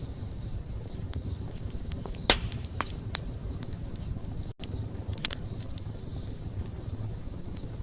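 Wood fire burning: a steady low rush of flames with sharp crackles and pops, the loudest a little over two seconds in. A split-second dropout breaks the sound about halfway through.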